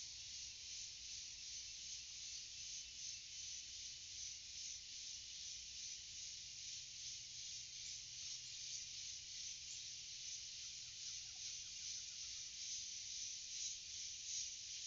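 A dense insect chorus in forest, crickets or cicadas, making a steady high-pitched, fast-pulsing buzz.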